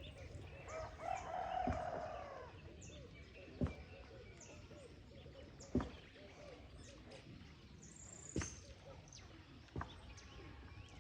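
Small birds chirping over outdoor background noise, with a louder, longer bird call about a second in. Five sharp clicks or knocks stand out at intervals of roughly two seconds.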